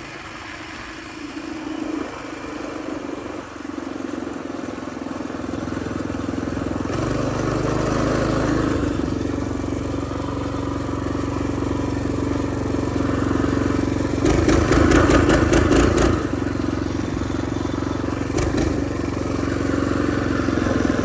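A mini bike's Predator 212 single-cylinder engine running, growing louder about five seconds in as it pulls. Past the middle comes a couple of seconds of loud rattling, which the rider puts down to the exhaust heat shield.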